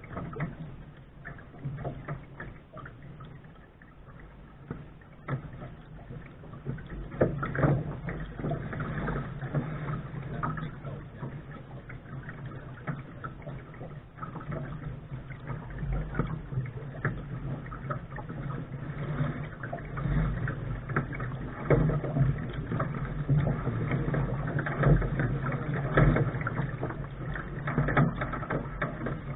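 Water splashing and rushing along the hull of a Lark sailing dinghy under way, in irregular surges, with wind buffeting the microphone.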